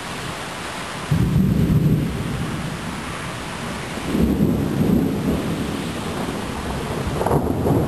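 Thunderstorm: steady rain hiss with low rumbles of thunder, one breaking in suddenly about a second in, another about four seconds in, and a third building near the end.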